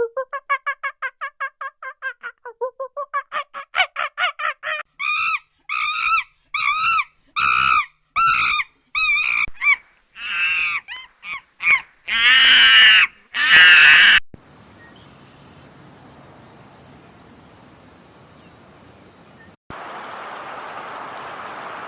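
An animal or bird calling over and over: first a fast run of short calls, about four or five a second, then slower, louder separate calls, and a few longer calls before it stops about two-thirds of the way through. After that comes a faint steady hiss, which jumps to a louder steady rushing noise near the end.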